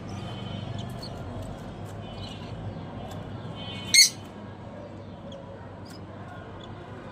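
Caged small parrots chirping, with one loud harsh squawk about four seconds in.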